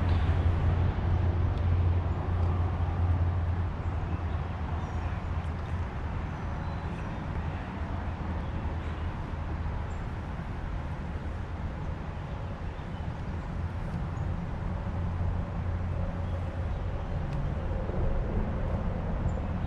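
Boat motor running steadily with a low, even hum that eases off slightly a few seconds in.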